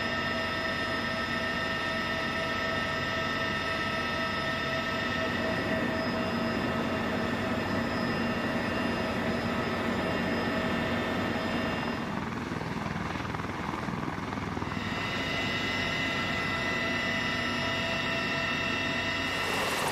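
Heavy military helicopter running, a steady high turbine whine over the rush of the rotors and engines. The whine fades for a few seconds about twelve seconds in, then returns.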